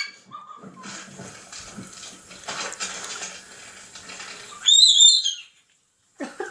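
Moluccan cockatoo giving one short, shrill call that rises in pitch near the end, over a faint background hiss.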